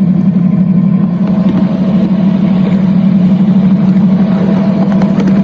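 Eighth-scale ride-on locomotive running along the track, a loud steady low-pitched drone that holds one pitch throughout.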